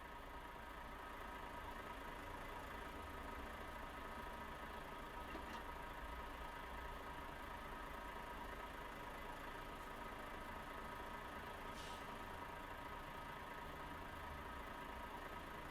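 Volvo FH 500 truck's 13-litre straight-six diesel idling steadily and faintly, with two faint clicks about five and twelve seconds in.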